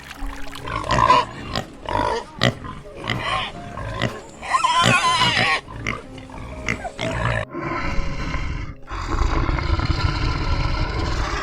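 Pigs grunting in short irregular calls, with a longer squeal about five seconds in. A steady rushing noise takes over for the last few seconds.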